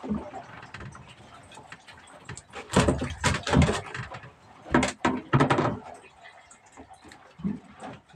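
Sharp knocks and thumps on the fishing boat, two close pairs about three and five seconds in.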